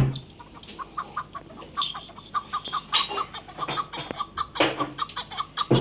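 Chukar partridge calling: a fast run of short clucking notes, about four to five a second, with a few louder sharp sounds in between.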